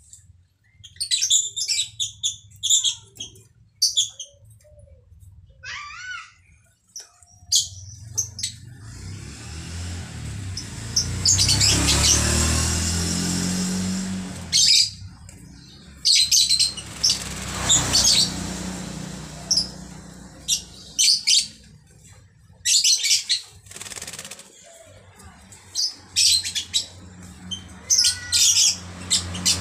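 Pet starling bathing in its water dish: bursts of wing-flapping and splashing, with chirps and short gliding calls in the first few seconds. A low rumble swells in the background around the middle.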